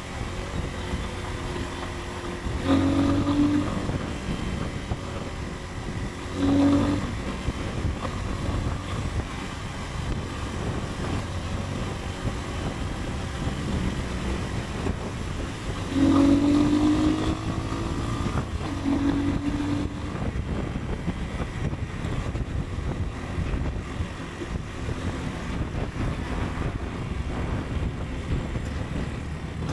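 Motorcycle riding through city traffic: a steady low engine rumble and wind rush on the microphone, with brief louder pitched rises about 3, 7, 16 and 19 seconds in.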